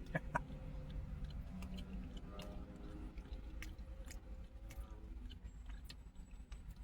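A man chewing food close to the microphone, with scattered short wet mouth clicks over a low steady hum.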